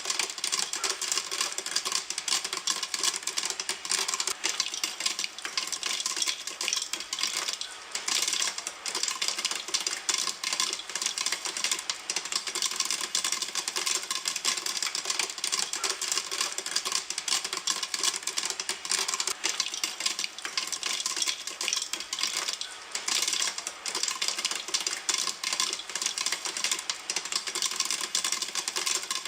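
Popcorn popping in a pan: a dense, steady run of sharp pops that does not let up.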